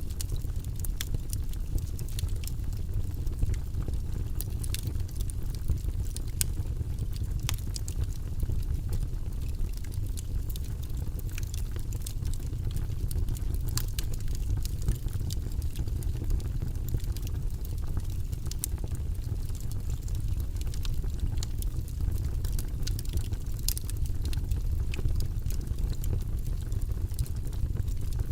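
Wood fire burning in a fireplace: a steady low roar of the flames with scattered sharp crackles and pops from the logs.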